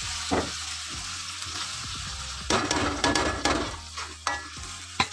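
Freshly added wet spice paste of ground shallots, garlic, chillies, ginger and turmeric sizzling in hot oil in a wok, with a metal spatula scraping and tapping the pan as it is stirred. The sizzling and scraping grow louder for about a second halfway through.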